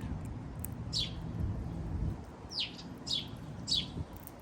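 Small birds chirping: four short calls, each sweeping quickly down in pitch, one about a second in and three in quick succession later on.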